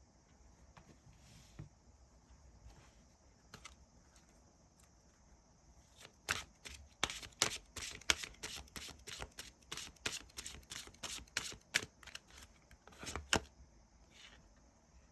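Tarot cards being shuffled by hand: a few scattered taps, then from about six seconds in a rapid run of crisp card snaps and flicks that stops shortly before the end. A faint steady high hiss runs underneath.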